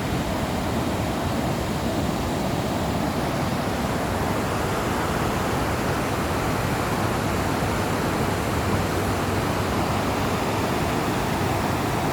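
Waterfall running high after heavy rain: a steady, even rush of falling water.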